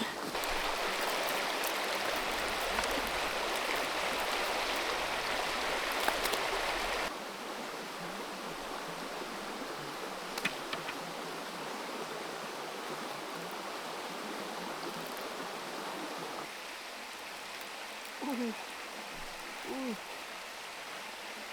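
Steady rush of flowing creek water, which drops suddenly to a quieter level about seven seconds in and again a little later. A few light clicks sound early on, and near the end come two short calls that bend in pitch.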